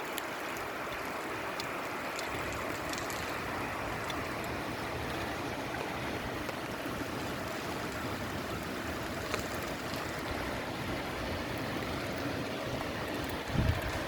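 Steady rain falling: a constant hiss with faint scattered ticks of drops. A short low thump comes near the end.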